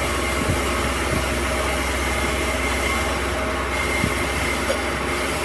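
A machine running steadily, with a constant low hum, an even hiss and a faint high whine, broken by a few light clicks.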